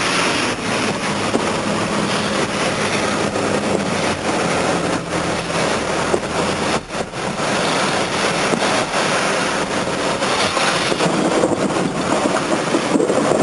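Cars driving through floodwater that covers a street lane: a steady rush of spray and tyre noise over running engines.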